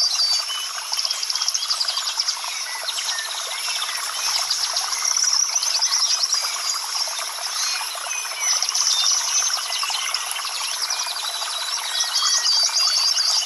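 Dense natural chorus of many birds chirping and trilling rapidly and overlapping, over a steady high hiss of insects.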